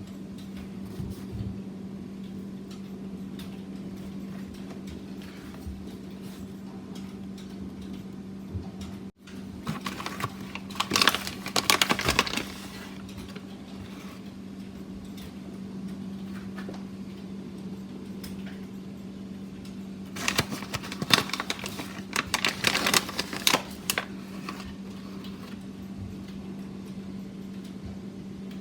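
A steady low hum with two spells of rapid clicking and clattering, each a couple of seconds long, the first about ten seconds in and the second about twenty seconds in.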